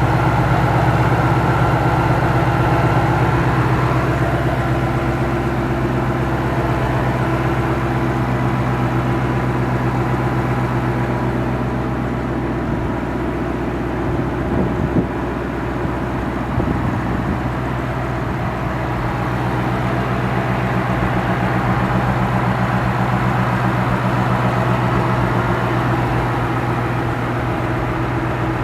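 Ford Mustang 5.0 V8 idling steadily, with a couple of brief bumps about halfway through.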